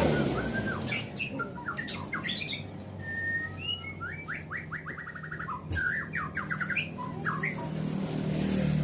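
White-rumped shama (murai batu) calling and singing in agitation: short whistled notes and chirps with a few sharp clicks, one held whistle, and a fast rattling run of quick notes about halfway through.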